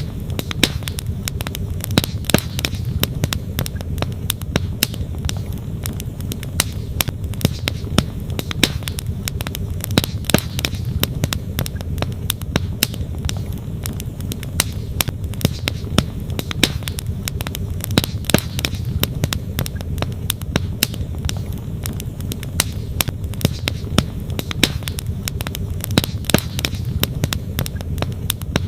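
A wood fire crackling, with frequent sharp, irregular pops of burning logs. Under it runs the steady rush of a flowing stream.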